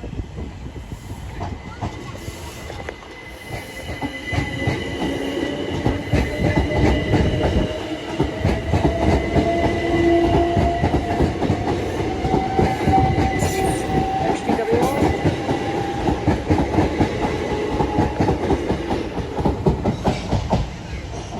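A train passing close by, its wheels clattering rapidly over the rail joints under a steady whine. It grows loud about four seconds in and stays loud until it fades near the end.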